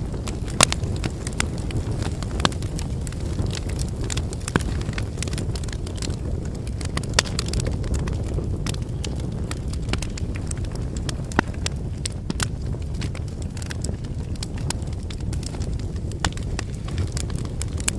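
Wood campfire burning: a steady low rumble of flames with frequent sharp crackles and pops from the burning logs, a few of them louder.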